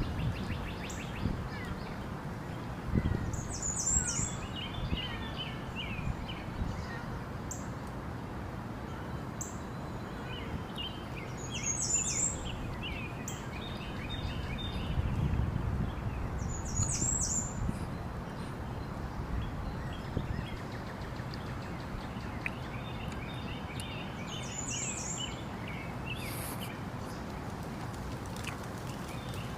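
Birds calling: a short, high-pitched call comes four times, each with a cluster of chattering chirps, over steady low background noise.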